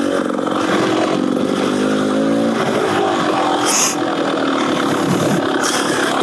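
Beta Xtrainer 300 two-stroke dirt bike engine with an FMF Gnarly exhaust, revving up and down under riding. Two short bursts of hiss come near the middle and near the end.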